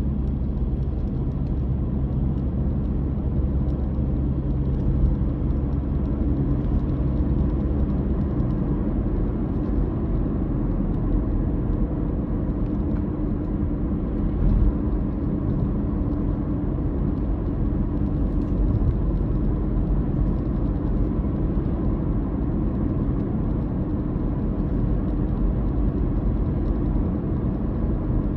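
A car's engine and road noise droning steadily during a drive, the engine note shifting about eight seconds in.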